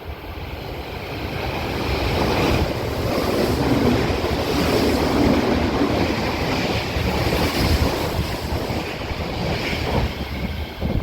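Odakyu electric commuter train running alongside the platform, a loud steady rush of wheel and air noise that builds over the first few seconds and then holds.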